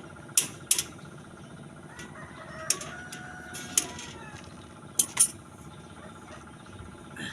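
A rooster crowing in the background, one drawn-out call from about two to four seconds in. Sharp clinking knocks sound several times, two close together near the start and two about five seconds in.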